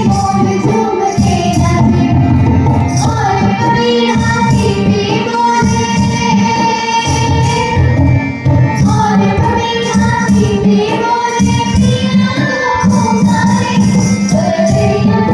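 Girls singing a kajri, a Bihari folk song, with a steady percussion beat.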